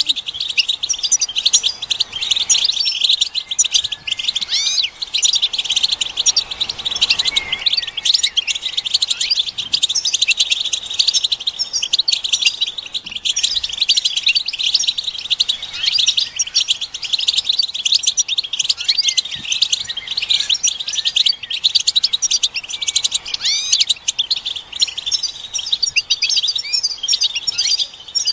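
A group of European goldfinches twittering together: a dense, unbroken stream of rapid chirps and short trills. These are the excited, mating-ready calls used to stimulate a silent male goldfinch into song.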